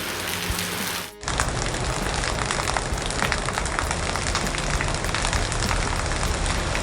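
Heavy rain falling and pattering on a hard surface: a dense, steady hiss full of fine drop ticks, with an abrupt cut about a second in.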